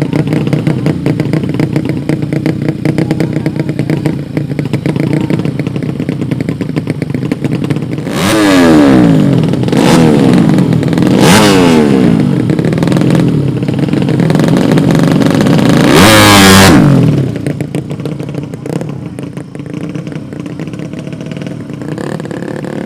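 Tuned 130cc drag-race motorcycles running loudly at the start, then accelerating hard through the gears. The engine pitch climbs and drops back with each upshift. The sound is loudest as the bikes pass close by, about two-thirds of the way through, then fades away.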